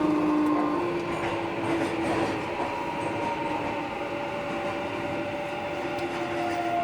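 Onboard running sound of a Keikyu 1000 series train: the Mitsubishi IGBT-VVVF inverter and traction motors whine in several steady tones that slowly fall in pitch, over wheel and rail rumble. This set is slightly noisier than the others of its class.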